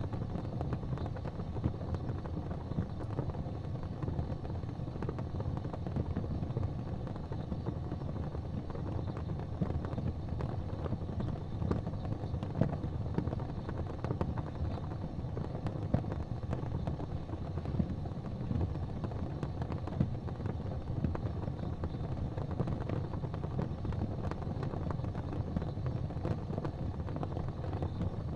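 Wood fire burning in a fireplace: a steady low rumble of flames with scattered sharp pops and crackles.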